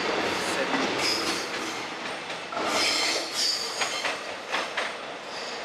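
Suburban electric train running on the rails, with wheels squealing in high, wavering bursts and clacks over rail joints, over a steady rumble and rush.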